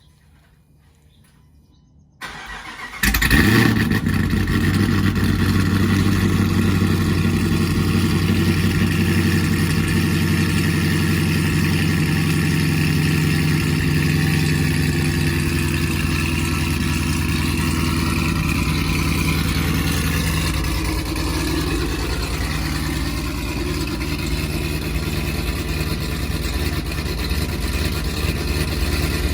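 Cold start of a 2018 Jeep Trackhawk's supercharged 6.2-litre V8, cammed and breathing through American Racing headers, catless downpipes and a Borla cat-back exhaust. About two seconds in the starter cranks briefly, the engine catches with a loud flare, then settles into a steady fast cold idle that eases a little after about twenty seconds.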